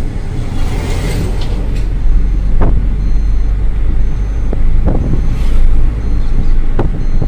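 Steady low rumble of a moving Maruti Celerio heard from inside the cabin: engine and road noise while driving, with a few short knocks about a third of the way in, halfway through and near the end.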